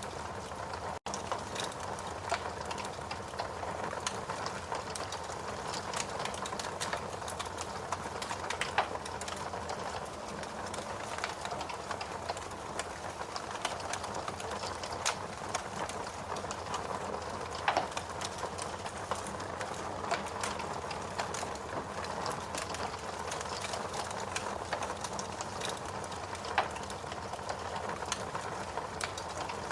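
Steady rain mixed with a wood fire crackling, with many small clicks and a few louder pops from the burning wood. The sound cuts out for an instant about a second in.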